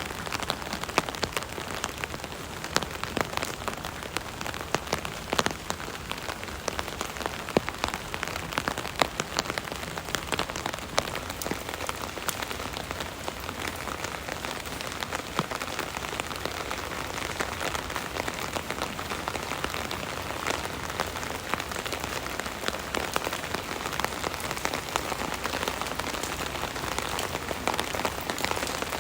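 Steady rain pattering on an umbrella, a continuous hiss dotted with many separate sharp drop impacts.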